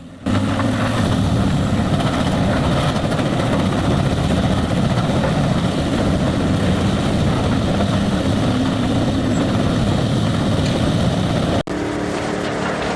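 Bandit Beast 4680 horizontal grinder running under load, a loud, steady grinding din. About eleven and a half seconds in, it breaks off suddenly and gives way to a different machine with a steadier hum.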